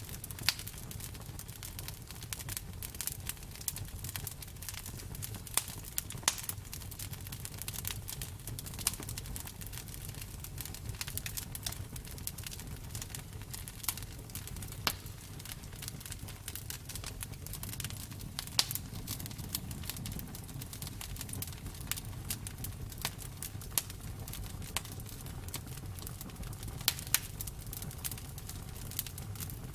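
Campfire burning: wood crackling with sharp, irregular pops over a low, steady rumble of the flames.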